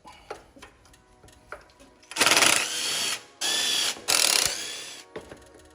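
3/8 ratchet wrench clicking in three quick bursts, loosening the carburetor intake bolts, after a few faint metal taps.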